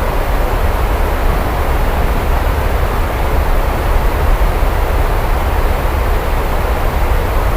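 Steady heavy rain: a dense, even hiss with a continuous deep rumble underneath and no distinct drops or thunderclaps.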